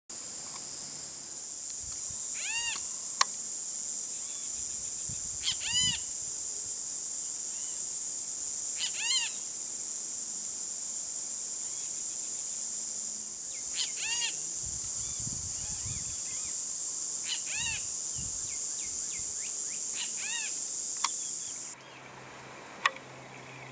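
A steady high-pitched insect drone, with a short arched call from an animal, most likely a bird, repeated six times a few seconds apart; the drone cuts off near the end.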